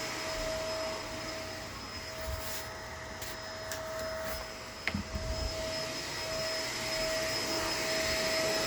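Shark LA702 upright vacuum cleaner running steadily, its motor giving a constant whine. There is a single knock about five seconds in.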